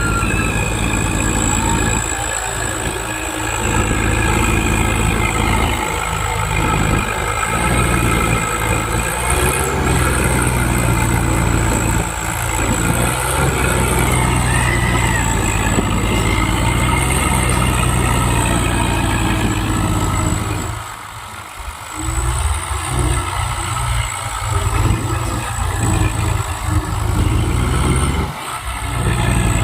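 Diesel tractor engine running loudly and steadily, with a brief drop in level about two-thirds of the way through before it picks up again.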